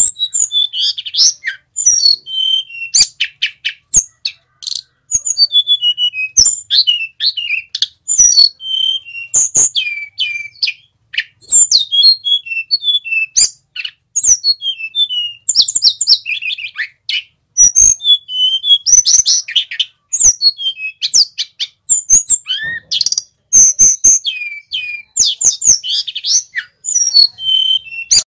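Male sulingan gunung songbird singing nonstop: quick, high-pitched whistled notes and sweeping phrases strung together with only short pauses.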